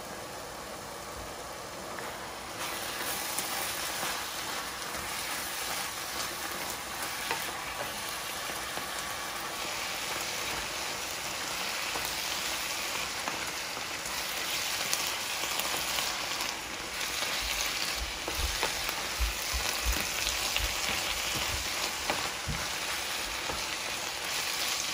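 Bok choy, onion and chili peppers sizzling in a frying pan over fairly high heat as the greens' water cooks off, stirred with a wooden spatula. The sizzle gets louder about two and a half seconds in, and light taps and scrapes of the spatula come in later.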